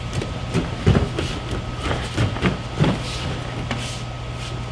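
Soft thumps and shuffling of two people moving on training mats during an aikido technique, a handful of short scuffs over a steady low hum of room ventilation.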